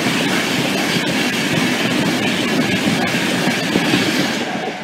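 LNER InterCity 225 express (Class 91 electric locomotive and Mark 4 coaches) passing over the level crossing at speed: a loud rush of wheel and air noise with rapid clicking of wheels on the rails. It fades near the end as the last coaches go by.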